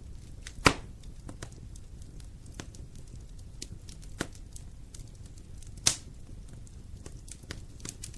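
Wood fire in a fireplace crackling: a steady low rumble with scattered small snaps, and loud pops just under a second in, about four seconds in, and about six seconds in.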